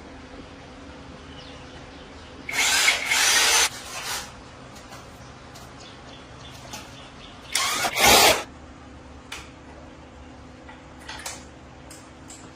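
A power tool run in two short bursts of about a second each, with small clicks and taps of work between them.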